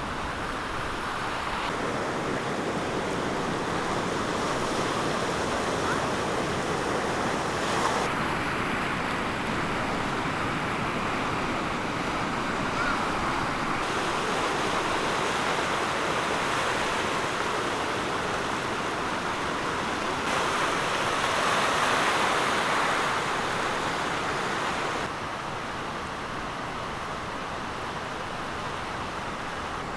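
Steady rush of floodwater from a beck in full flood after heavy rain. The sound changes abruptly every few seconds, as if from shot to shot.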